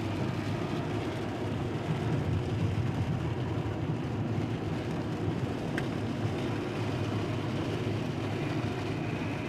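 Steady low rumble of a running vehicle, with one faint click a little past the middle.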